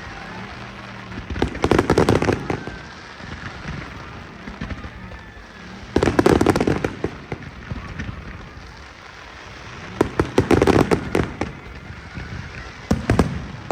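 A fireworks display: volleys of rapid bangs and crackles come in four clusters, roughly every four seconds, each lasting about a second.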